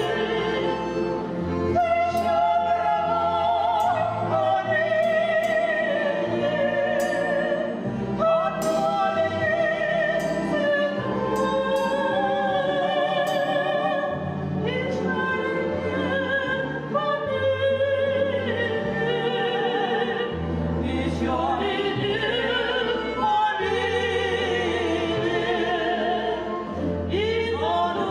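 Two women singing a Russian song in duet, with strong vibrato, over an instrumental accompaniment with a stepping bass line.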